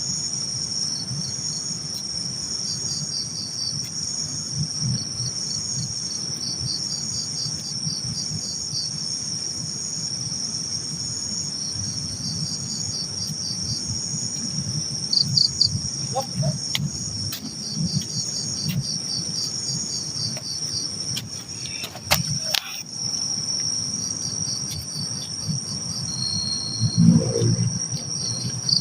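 Night insects, crickets among them, calling in chorus: a steady shrill ringing with repeated runs of rapid pulsed chirps. An uneven low rumble lies under it, and a few sharp clicks and knocks come about midway.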